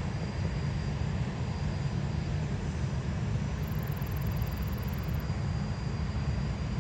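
Jet aircraft engines running at an airport: a steady, unbroken rumble heaviest in the low end, with a faint high whine held throughout.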